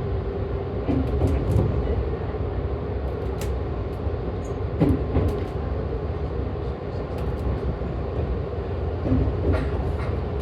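Joetsu Line electric train running at reduced speed under a strong-wind restriction: a steady running rumble with a humming tone and a few sharp clacks, about a second in, midway and near the end.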